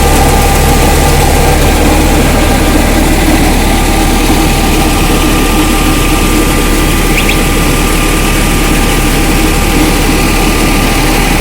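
Tractor-driven rice mill (paddy husker and polisher) running steadily, the tractor's diesel engine and the milling machinery together making a constant loud hum.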